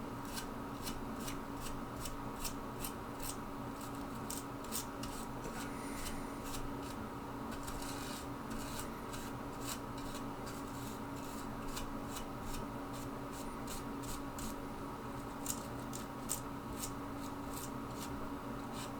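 Paintbrush bristles stroking a weathering wash onto the plastic body of an HO scale model railcar: a run of light, scratchy brush strokes, irregular at about two to three a second, over a steady low hum.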